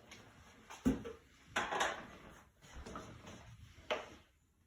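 Kitchen handling noises as a flour container is fetched and opened: a sharp knock about a second in, a rustling scrape, and a click near the end.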